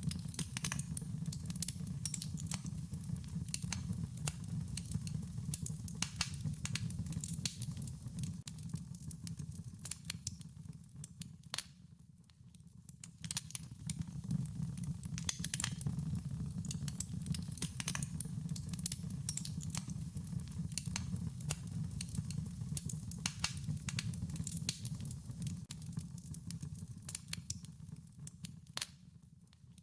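Wood fire crackling: irregular sharp pops and snaps over a steady low rumble of burning, easing off briefly twice.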